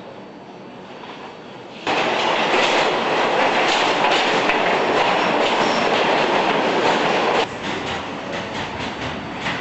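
Subway train running on the rails. A loud rush of wheel and rail noise starts abruptly about two seconds in and drops back a little past seven seconds, leaving quieter rapid clacking.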